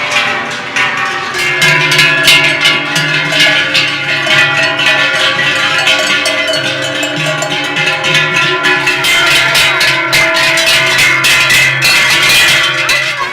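Many cowbells on the necks of a passing herd of Swiss cows, clanking and ringing together in a dense, uneven jangle.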